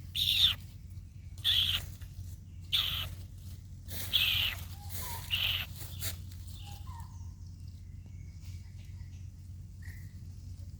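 Baby monkey calling out in short, loud, high-pitched cries, five of them about a second and a half apart, then falling quiet except for a few faint chirps. A steady low hum runs underneath.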